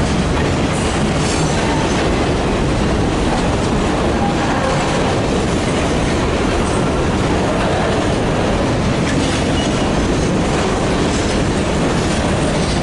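Freight train rolling past close by: a loud, steady rumble of railcars on the track with faint clacks from the wheels.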